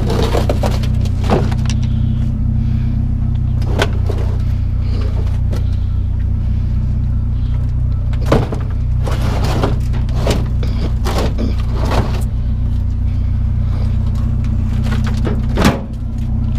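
Truck engine running steadily with a low hum, with a few sharp knocks and clunks over it.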